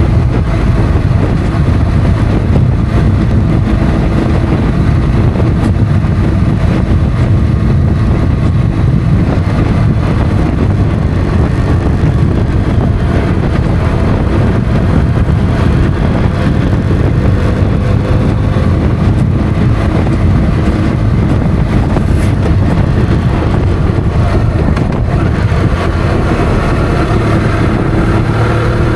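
Motorcycle engine running while riding, over a dense, steady low rumble. The engine pitch rises near the end as it accelerates.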